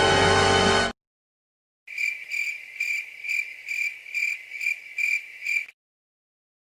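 Music cuts off abruptly about a second in. After a pause, a cricket chirps: about nine evenly spaced high chirps over some four seconds, which then stop suddenly.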